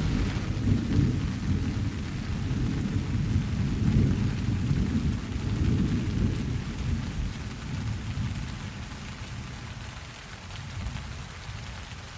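Steady rain with a long roll of thunder, rumbling most heavily through the first half and dying away toward the end.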